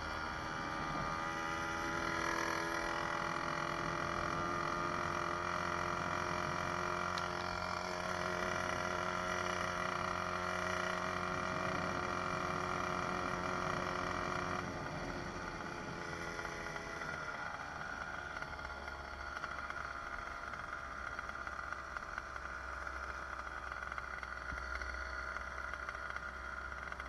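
66cc two-stroke motorized bicycle engine running at high revs under way. About fifteen seconds in its pitch drops as the throttle eases off, and it carries on at lower revs.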